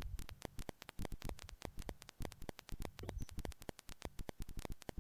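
Rapid, irregular crackling clicks, several a second, with no voice.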